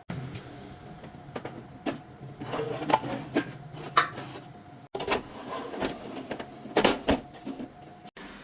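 Irregular sharp clicks and knocks of hand work in a workshop, over a low steady hum, breaking off abruptly about five seconds in and again near the end.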